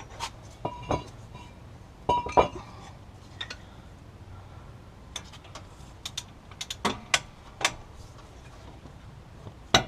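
Irregular metallic clinks and taps of hand tools working a wheel-hub mounting bolt loose, a few of them ringing briefly; the loudest come about two seconds in.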